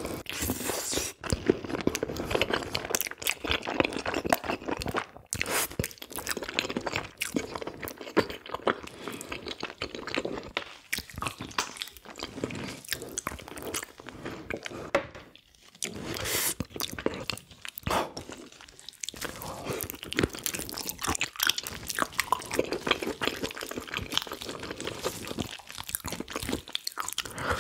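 Close-miked chewing and biting of spicy braised pig's trotters, a steady run of irregular crunching and small mouth clicks that dips briefly twice partway through.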